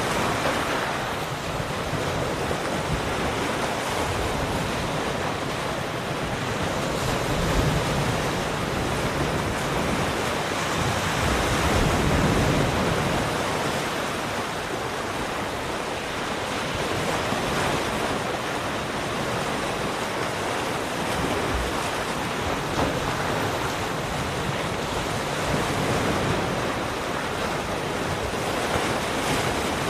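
Ocean waves washing onto a shore in a steady rush, swelling and easing as each wave breaks, with some wind noise on the microphone.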